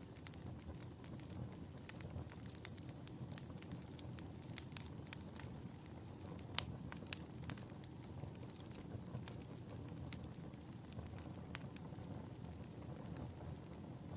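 Wood fire burning in a fireplace: a low, steady rush with frequent sharp crackles and pops, the loudest pop about six and a half seconds in.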